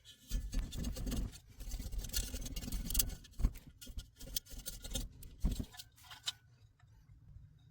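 Thin aluminium strip scraping and rasping between the fins of a diesel heater's heat exchanger, knocking loose built-up soot from coking, in quick irregular strokes with a few knocks; it dies down about six seconds in.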